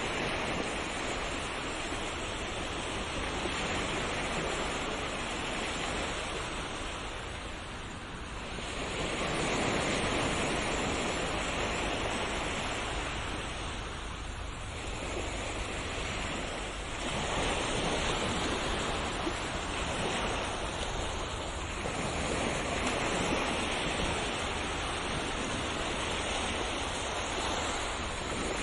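Ocean waves breaking and washing on a shore, a steady surf hiss that swells and eases every several seconds.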